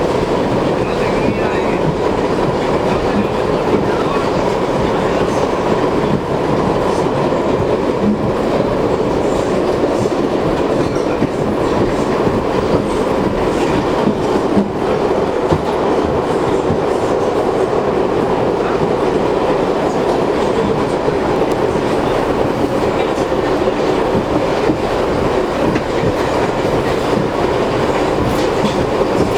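An R62 subway car of the 3 train running at speed, heard from on board: a steady rumble and clatter of wheels on the rails, with a faint steady hum.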